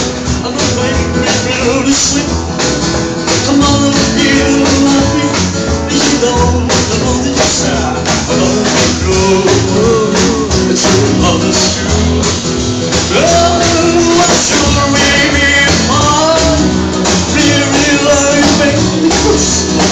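Live music from a small band, a trio playing a song with a steady beat.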